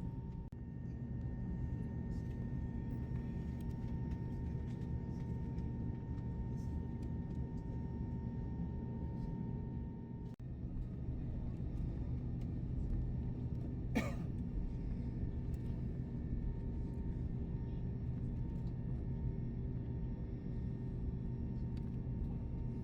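Steady low rumble of an Airbus A321's jet engines and air system heard from inside the passenger cabin. A faint whine stops about ten seconds in, and a single sharp click comes a few seconds later.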